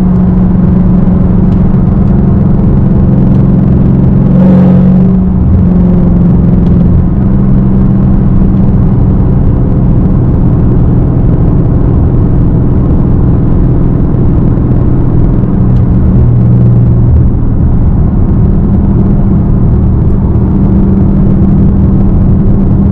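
Straight-piped Dodge Hellcat's supercharged V8 running loud and steady, a low drone that steps to a new pitch a couple of times, about five seconds in and again about seventeen seconds in.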